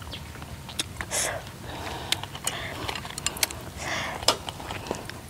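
A person sniffing and drawing short sharp breaths through the mouth while eating very spicy food, with scattered small clicks between the breaths.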